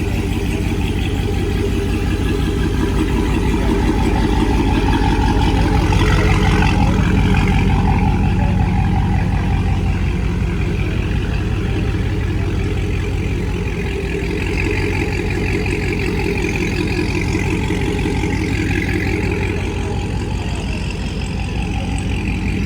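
Car engine running at low speed with a steady low rumble, swelling slightly about six seconds in.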